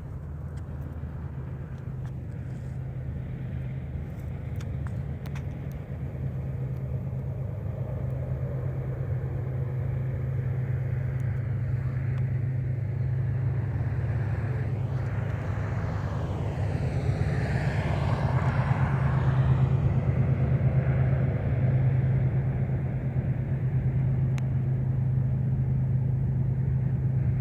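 Road traffic: a steady low engine hum with car tyres on the road, building slowly as a car passes close by, loudest about 18 to 20 seconds in.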